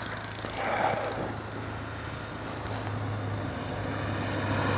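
Car driving on a snow-covered highway: a steady low engine drone with road and tyre noise, growing louder toward the end.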